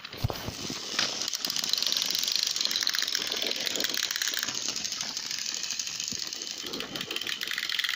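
Battery-powered toy train engines running, their motors and plastic gears giving a steady, fast whirring rattle as they push against each other on the track. A low knock just as they start.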